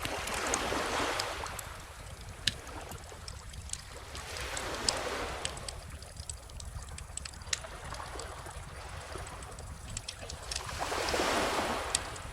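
Calm ocean waves washing in three slow swells, about a second in, around five seconds in and near the end, over a steady low rumble. A wood fire crackles throughout with scattered sharp pops.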